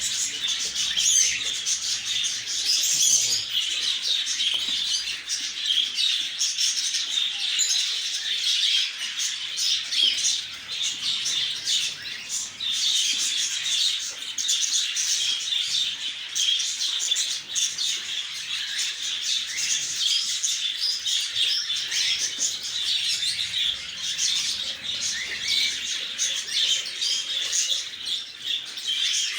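Lovebirds chattering: a dense, unbroken stream of high chirps, many overlapping at once.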